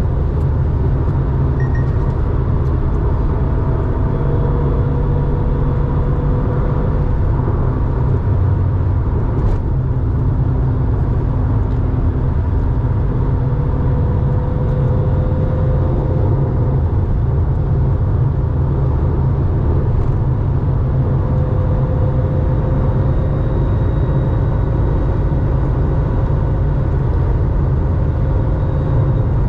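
1987 Porsche 911's 3.4-litre air-cooled flat-six running through a Scart two-in-one-out muffler, a steady low exhaust drone with road noise while cruising at an even speed.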